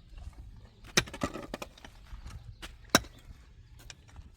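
Two sharp knocks about two seconds apart, with a short scraping sound just after the first and a few faint taps.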